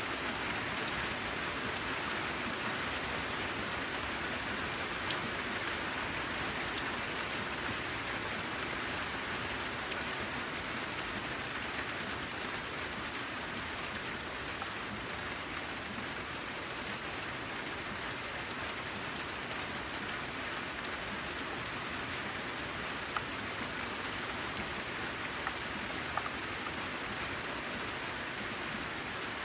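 Steady rain pattering on a corrugated zinc roof, with scattered sharper drop ticks throughout.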